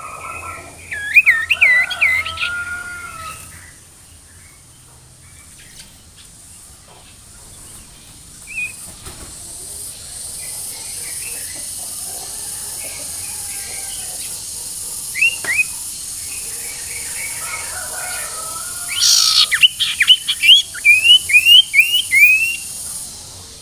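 Sirtu bird song: a burst of quick sweeping chirps near the start, two short whistled notes midway, and a fast run of repeated sweeping chirps near the end, over a steady high hiss.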